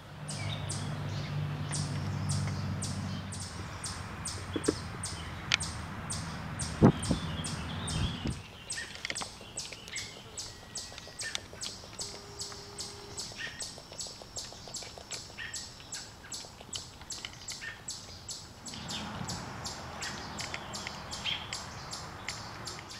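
Birds chirping, a rapid even series of short high notes about three a second. A low steady hum runs under it for the first eight seconds, and a single knock sounds about seven seconds in.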